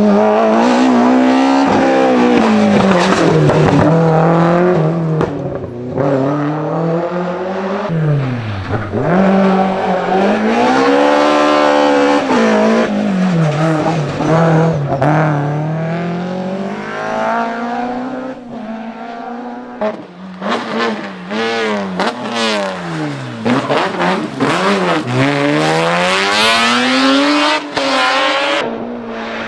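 BMW M3 engine revved hard, its pitch swinging up and down again and again in quick arcs. Sharp cracks come in among the revs in the second half.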